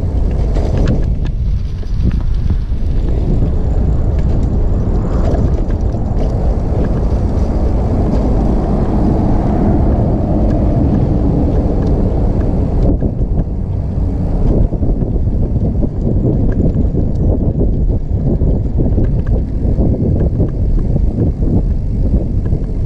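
Wind buffeting the microphone, with the rolling rumble of a trike ridden along a paved road.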